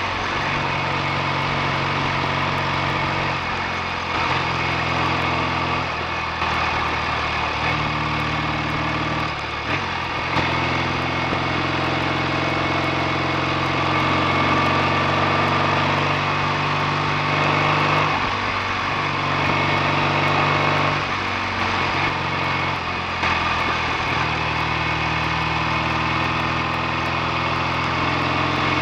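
BSA A65 650 cc parallel-twin motorcycle engine running on the road, its note shifting up and down in steps every few seconds as the throttle and speed change.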